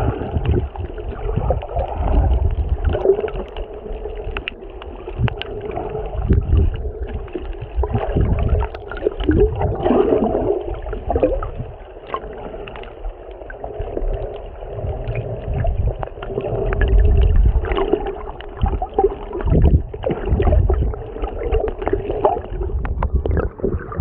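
Sea water sloshing and gurgling around a camera filming in the shallows, with low rumbles that rise and fall in uneven surges.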